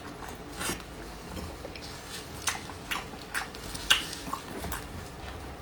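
Close-miked chewing of soft stewed cured pork, with a string of short wet mouth clicks and smacks at irregular intervals.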